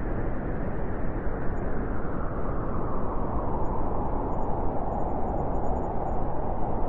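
Strong blizzard wind blowing steadily through a forest, an even, unbroken noise.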